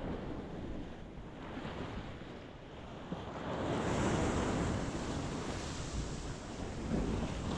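Ocean waves breaking on a rocky shore, the surf easing off and then building into a louder rush of breaking water about three and a half seconds in.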